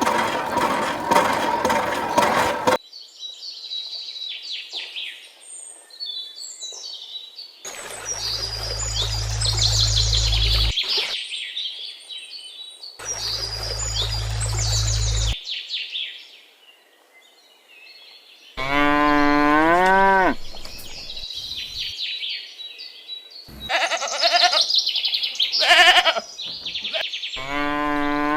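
Farmyard sounds: a cow mooing twice, long calls that rise and then fall, about two-thirds of the way in and again at the end, with birds chirping between them. A steady mechanical hum cuts off about three seconds in, and two low steady hums of about three seconds each come before the first moo.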